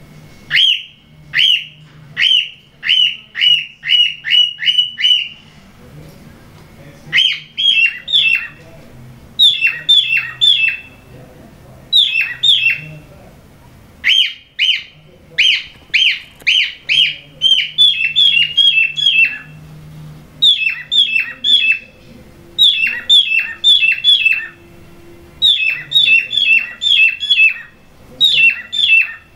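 Cockatiels giving loud, short, falling squawks in quick series of five to eight, about three a second, with short pauses between series: the repeated calls of cockatiels mating.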